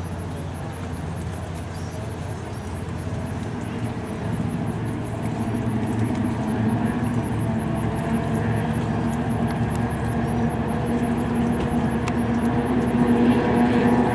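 A racing powerboat's engine running steadily at speed, growing gradually louder as it comes closer.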